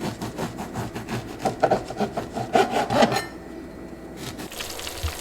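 Rapid back-and-forth rasping, sawing strokes of a kitchen utensil working through food while a breakfast egg sandwich is made. The strokes stop about three seconds in, leaving a faint steady hiss.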